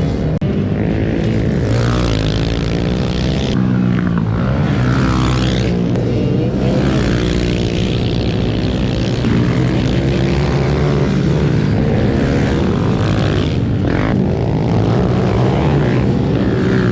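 Several small single-cylinder pit bike engines running and revving, their pitch rising and falling over and over as the bikes speed up and slow down.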